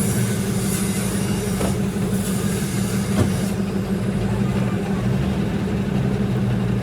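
Steady low hum of running machinery, with a few faint knocks.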